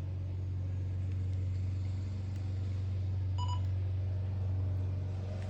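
A steady low hum, with one short beep from the Kenwood TM-D710A transceiver's control head about three and a half seconds in.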